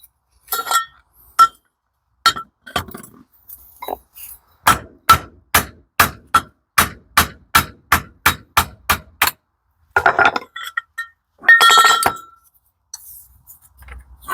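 Hammer blows on steel gearbox parts. A few scattered ringing metallic knocks lead into a steady run of about fifteen blows, roughly four a second, followed by a clatter of metal parts being handled.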